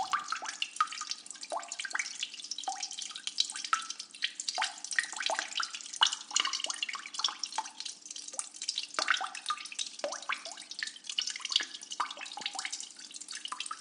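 Water dripping and trickling: many irregular plinking drops over a steady splashing hiss.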